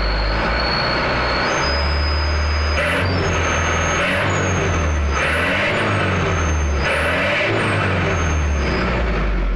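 Truck engine revved repeatedly through an HKS aftermarket exhaust: a deep rumble under a high whistle that rises several times with the revs. About four short bursts of hiss (the exhaust's "souuss"), which only comes out above about 2000 rpm.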